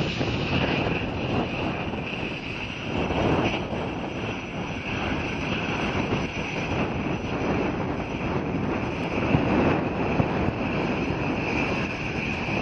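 Airliner engines running steadily, a high whine over a broad rumble.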